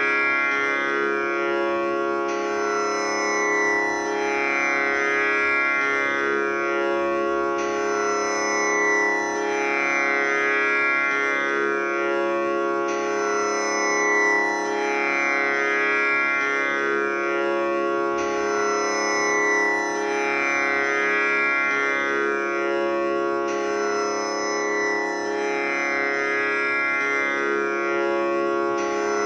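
Tanpura drone tuned to C#: its strings plucked one after another in a cycle that repeats about every five seconds, each pluck ringing on with a rich buzzing shimmer of overtones that blends into a continuous drone.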